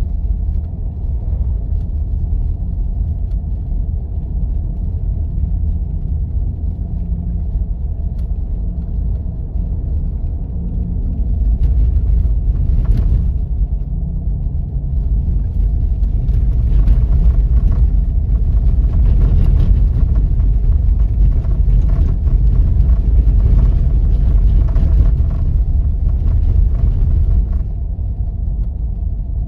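A Jeep driving on snow-covered back roads: a steady low rumble of engine and tyre noise. From a little under halfway through until near the end it gets louder, with a rougher, crackling noise over the rumble.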